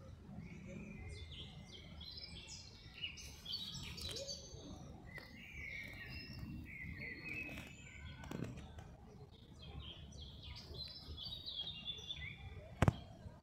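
Small songbirds chirping and singing in quick runs of short, stepping notes, over a low background rumble. A single sharp click near the end.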